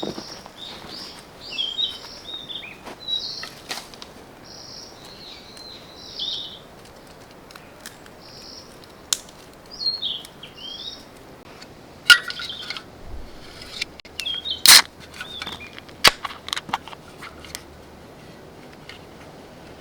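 Small birds singing in a series of short chirping phrases, with a handful of sharp cracks or snaps scattered through, the loudest two about twelve and fifteen seconds in.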